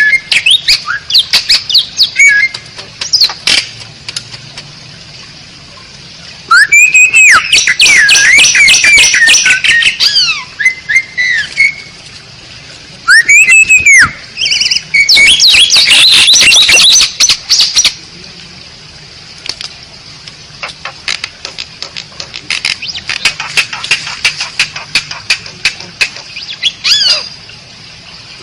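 Asian pied starling (jalak suren) singing: arched whistled notes that rise and fall, loud runs of rapid chattering and squawking phrases, and quieter stretches of fast clicking notes between the loud phrases.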